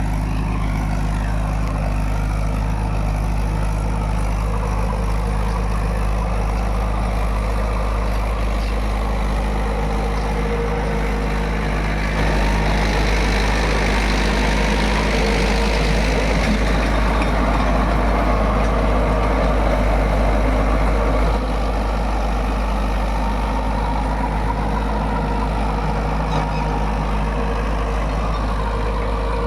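Mahindra 475 DI tractor's diesel engine running steadily while it works a rotavator. The sound grows louder and rougher about twelve seconds in and drops back about nine seconds later.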